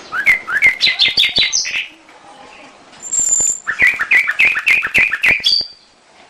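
Domestic canary singing two fast phrases of repeated rising chirps, about five notes a second. The second phrase opens with a high, thin, held whistle.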